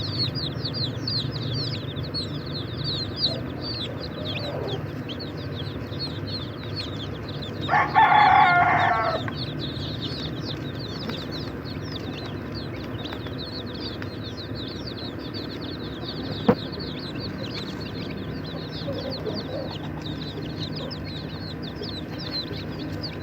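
A brood of chicks peeping continuously, a dense stream of rapid, high, downward-sliding cheeps. About eight seconds in, an adult chicken gives one loud call lasting about a second and a half. A single sharp click comes later over a steady low hum.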